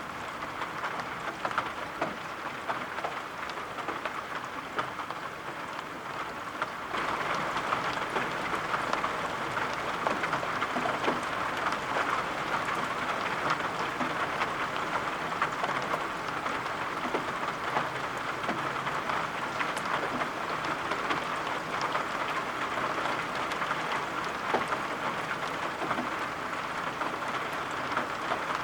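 Steady rain, an even hiss with scattered sharp drop taps, stepping up in loudness about seven seconds in and staying there.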